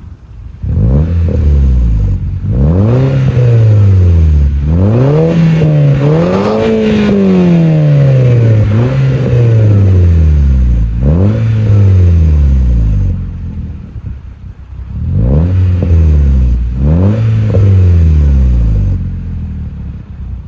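Audi TT engine revved repeatedly through a new, louder aftermarket exhaust. It gives a run of quick rev blips, each rising and falling in pitch, drops back briefly about two-thirds of the way through, then blips a few more times.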